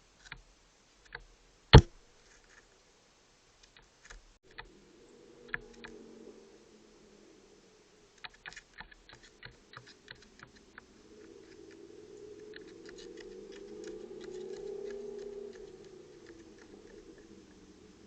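Scattered sharp clicks and taps, one much louder click about two seconds in and a quick cluster of small ticks near the middle. Under them, a low wavering drone swells and then fades away.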